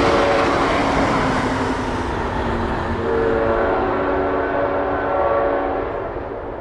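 Passenger diesel locomotive, an EMD F40PH, sounding a multi-note air horn in two long blasts over the rumble of the passing train. The sound fades and dulls near the end as the train moves away.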